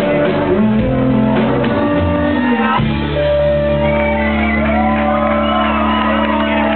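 Live band playing loud, with shouting voices over the music; about three seconds in the band settles into a long held chord.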